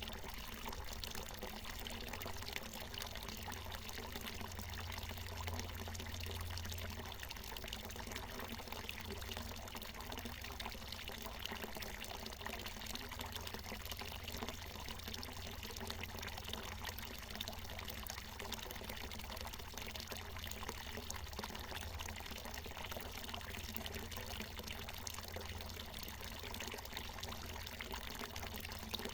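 Water from a natural mountain spring pouring and splashing steadily, a continuous trickling patter with a low rumble underneath.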